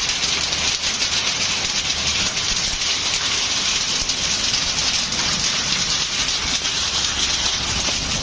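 Heavy rain falling steadily, an even hiss of many drops with no letup.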